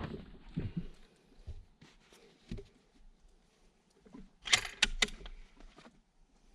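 Handling noise from a bolt-action rifle on a rest: scattered light knocks, then a quick run of three or four sharp clicks about four and a half seconds in.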